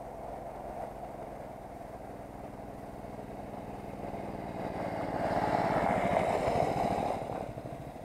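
Engine of a home-built motorcycle running. It grows steadily louder past the middle, then falls off sharply near the end.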